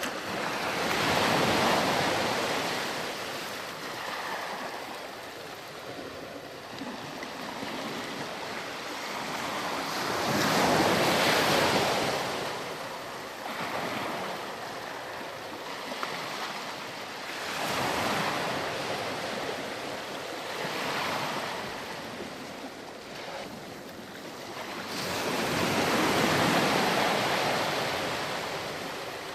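Ocean surf on a sandy beach: waves breaking and washing up and back in slow surges every several seconds. The biggest swells come about a second in, around the middle, and near the end.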